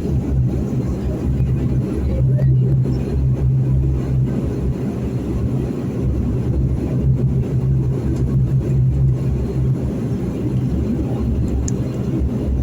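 Cabin noise of a De Havilland Dash 8-400 taxiing: its Pratt & Whitney PW150A turboprop engines and propellers make a steady, loud drone over a low rumble.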